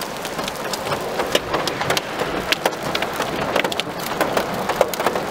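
Heavy thunderstorm rain falling on the car and the wet road: a steady rush of rain with many sharp, irregular ticks of drops striking the car.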